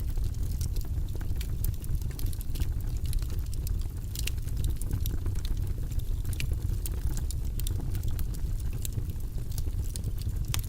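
Fireplace fire crackling: frequent sharp, irregular pops and snaps over a steady low rumble of the burning fire.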